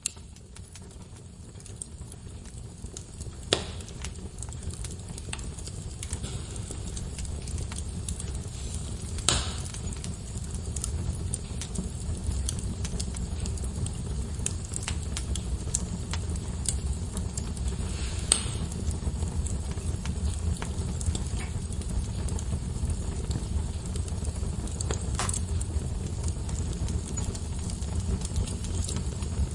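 Log fire crackling in a fireplace: a steady low roar with scattered snaps and a few sharper pops, fading in over the first several seconds.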